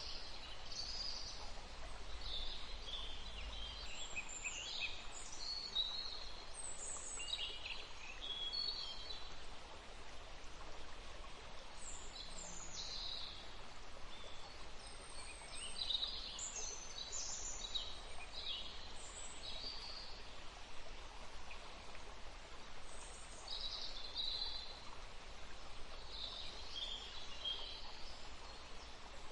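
Several songbirds singing short chirping and trilling phrases one after another, over the steady rush of a forest stream.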